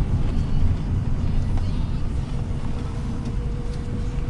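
Inside the cab of a Ford F250 with the 6.0 Power Stroke turbo diesel under way: a steady low rumble of engine and road noise. A faint steady whine joins about two seconds in.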